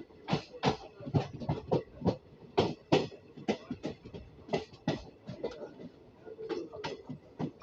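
Train wheels clacking over rail joints: a run of sharp metallic clacks, several coming in quick pairs about a third of a second apart.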